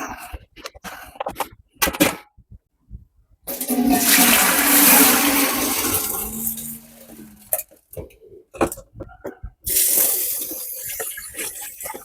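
Water pouring in two long spells into a large cooking pot of soaked bird-seed grain, the pot filling so the water stands over the grain. Short knocks and clinks of the pot and containers being handled come in between.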